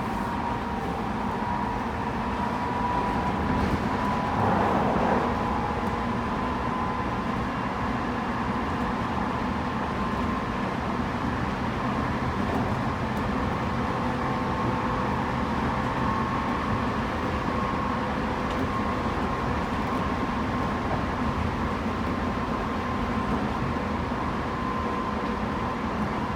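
Tobu 9050 series electric train running at speed, heard inside the car above its Toyo two-level GTO-VVVF inverter: steady motor and inverter tones over the rumble of wheels on rail. A brief louder rush comes about four seconds in.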